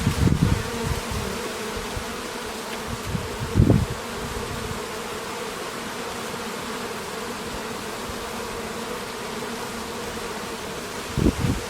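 Steady insect buzzing, with a few short low thuds near the start, about three and a half seconds in, and near the end.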